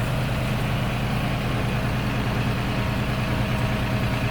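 Engine of an RK37 compact tractor running steadily at low revs.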